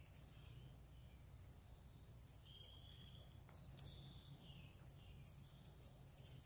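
Faint birdsong: short, clear whistled notes on several different pitches, with scattered brief high chirps, over a low steady rumble.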